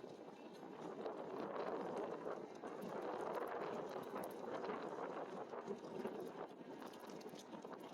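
Steady rolling noise from an e-bike riding on pavement, tyre hum mixed with wind on the microphone, with faint small ticks now and then.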